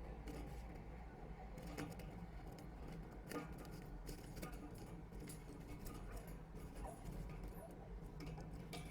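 Faint, irregular scratching and clicking of a kestrel moving about and scraping in the gravel of a nest box, over a steady low hum.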